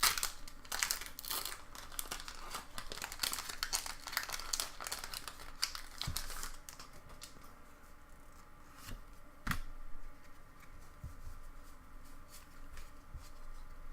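Foil booster-pack wrapper crinkling and tearing open for about six seconds, then quieter handling of the cards with a sharp tap about halfway through.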